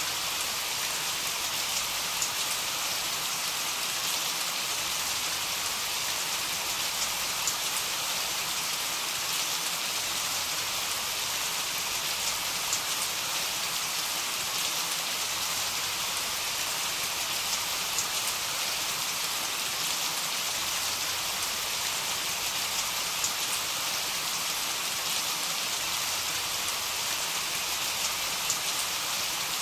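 Steady heavy rain: a dense, even hiss of drops with scattered sharper patters on a surface.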